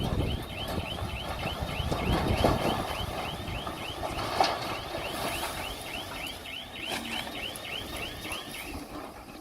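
A Komatsu D20P bulldozer running, with low rumbling and scattered knocks, under a high chirp that repeats evenly about three times a second and stops near the end.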